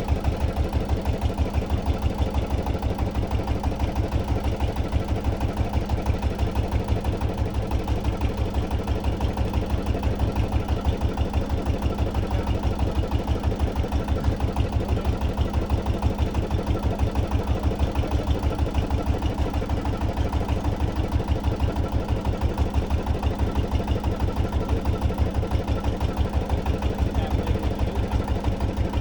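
A small boat engine running steadily at an even speed, with a fast, regular low throb.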